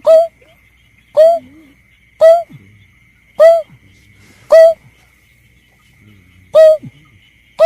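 Bird-lure recording of the berkik (belkek) call: short, loud hooting notes that drop in pitch, repeated about once a second, seven in all, with a longer pause near the middle. A faint steady high tone runs underneath.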